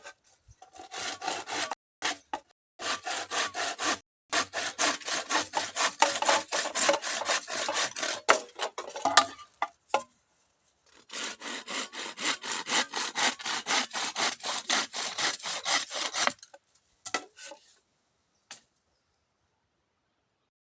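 Hand saw cutting through bamboo in quick back-and-forth strokes, about four a second, in two runs with a short pause between. A few light knocks follow as the sawing stops.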